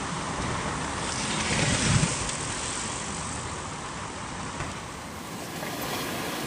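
Steady rushing road noise: traffic and wind on the microphone while cycling. It swells briefly about two seconds in.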